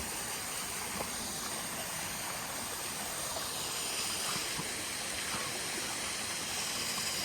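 Water of a small rocky stream flowing and splashing over rocks, a steady, even rush.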